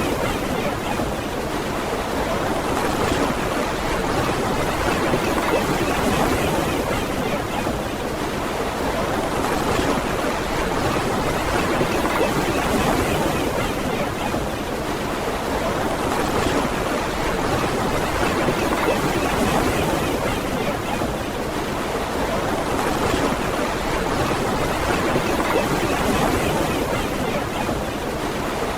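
Surf on a beach: a steady wash of breaking waves, swelling slightly every few seconds.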